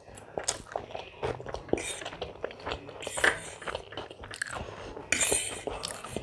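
Close-miked chewing and biting of food: irregular crunches and wet mouth clicks, with a louder, hissing stretch about five seconds in.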